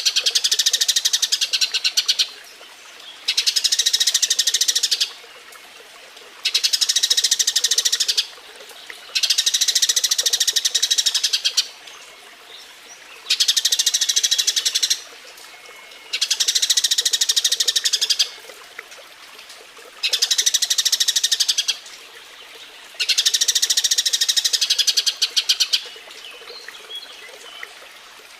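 Eurasian tree sparrows giving their breeding-season mating chatter: eight bouts of very rapid, high chirping, each about two seconds long, with short pauses between.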